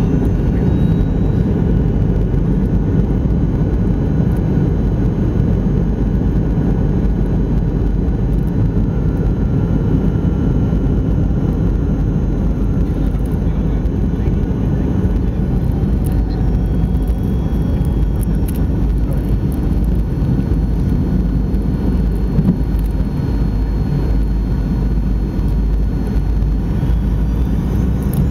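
Cabin noise inside a Fokker 70 airliner in flight: a steady, loud rush of air and engine noise from its two rear-mounted Rolls-Royce Tay turbofans, with thin, steady engine whines above it. A whine rises in pitch near the end.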